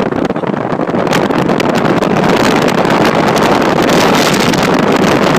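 Loud wind buffeting the microphone of a vehicle moving at motorway speed, with road noise beneath.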